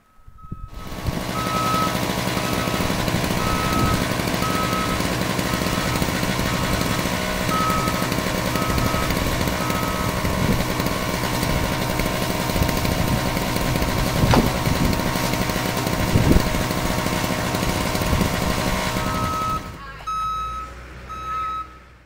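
Heavy vehicle's engine running loud and close, its reversing alarm giving a steady series of high beeps. The beeping pauses for several seconds midway and resumes near the end as the engine noise falls away.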